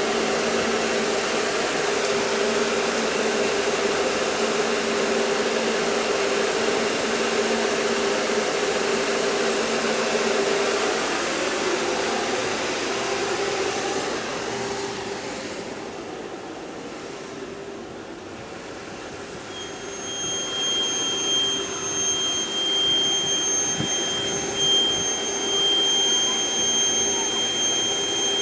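A London bus's engine and ancillaries running with a steady hum, fading away about halfway through; then a loud, steady high-pitched whine comes on and holds, the weird noise from the bus that keeps switching off and on.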